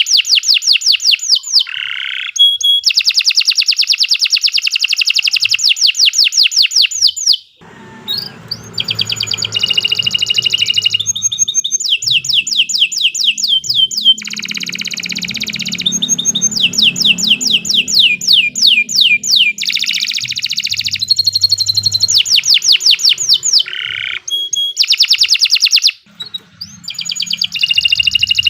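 Domestic canary singing long, continuous song: fast trills of rapidly repeated notes, one run after another, with two short pauses. A faint low hum lies under parts of the song.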